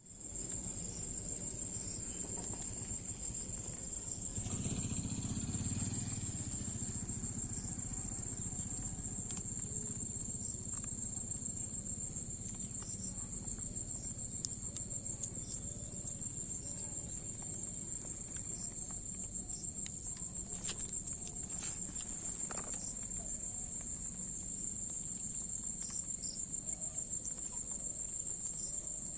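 Crickets chirring in one steady, unbroken high trill, over a low rumble that swells briefly a few seconds in.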